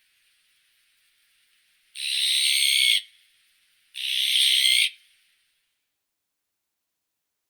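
Azure-winged magpie giving two harsh calls, each about a second long, two seconds apart.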